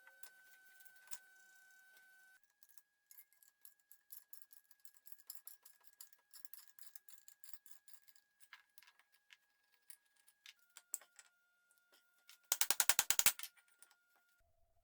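Scattered light metallic clicks and ticks, then near the end a short, loud run of rapid, evenly spaced clicks.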